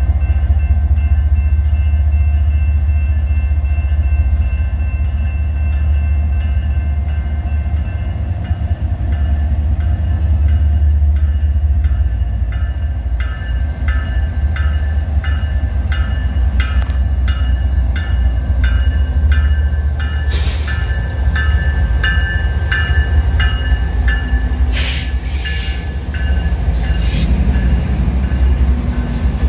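Train passing on the BNSF line with a heavy, steady rumble. From about the middle, a regular ringing strike repeats roughly one and a half times a second, and several sharp bursts of noise come near the end.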